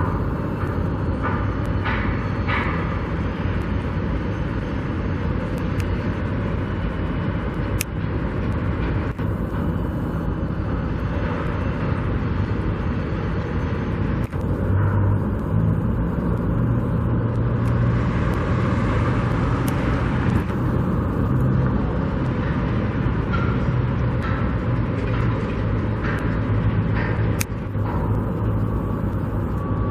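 Steady rumble of vehicle engines, with a louder low engine hum swelling from about 15 to 22 seconds in.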